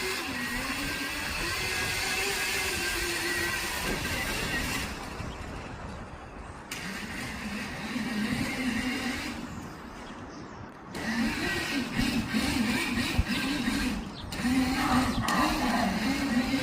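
Electric kids' dirt bike motor whining, its pitch rising and falling with the throttle. It fades twice and comes back louder near the end as the bike rides back toward the microphone.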